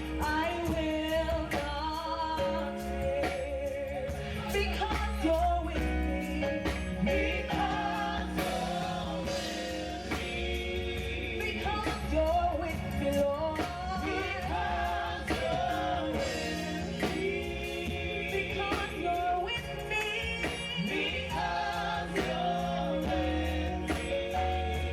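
Gospel praise team singing a worship song, male and female voices together, over instrumental backing with a steady bass line.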